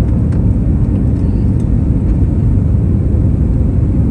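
Airbus A320neo cabin noise: the engines and rushing air heard from inside the passenger cabin as a steady, loud, low rumble.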